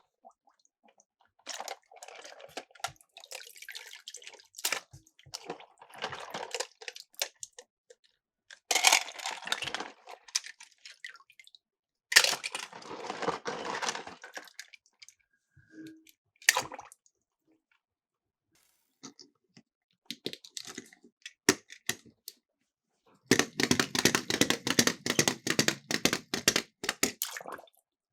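Miniature toy cars clattering and rattling in repeated bursts of one to three seconds, with quiet gaps between them; the longest and loudest burst comes near the end.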